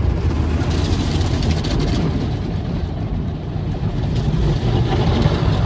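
Automatic car wash heard from inside the car's cabin: a steady, loud rumble of water spray and wash machinery pounding on the car's body, like a thunderstorm, with a hiss that swells now and then.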